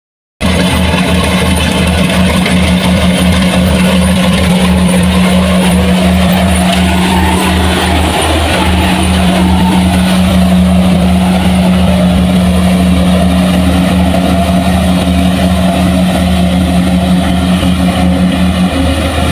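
Heavy farm machine's engine running steadily under load, cutting in suddenly from silence, with a strong low hum that barely changes.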